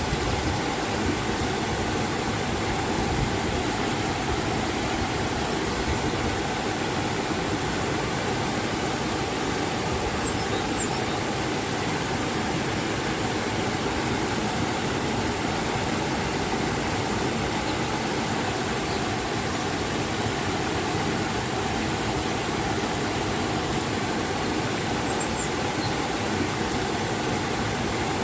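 River water rushing over a waterfall: a steady, even roar of water that does not change.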